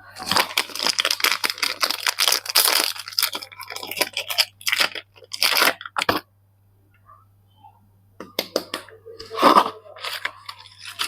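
Soap packaging being torn open and crinkled by hand: dense crackling tearing for the first few seconds, a few short rasps, a brief pause about six seconds in, then more crinkling near the end.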